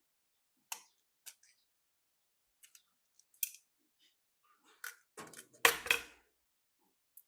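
Scattered light clicks and clacks of computer hardware being handled, with a longer, louder clatter about five seconds in.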